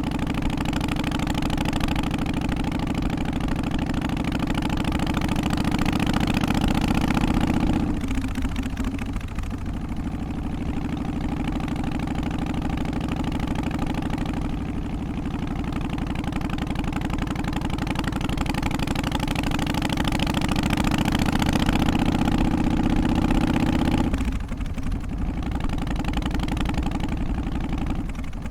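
Harley-Davidson Twin Cam 88 V-twin engine running steadily, its sound dropping back abruptly twice, about eight seconds in and again about three-quarters of the way through.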